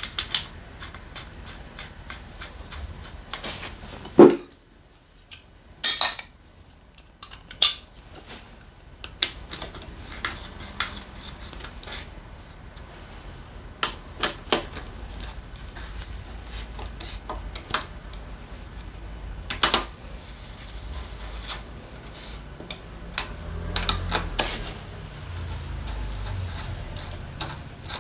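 Metal tools and engine parts clinking and knocking against each other in irregular sharp strokes during hands-on engine work, with a few louder knocks.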